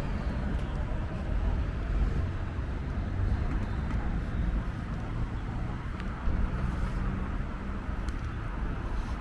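Wind buffeting the microphone as a heavy, fluctuating low rumble over street noise with road traffic.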